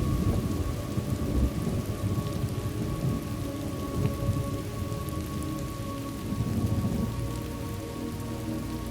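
Thunderstorm ambience: steady rain falling, with low thunder rumbling and rolling underneath.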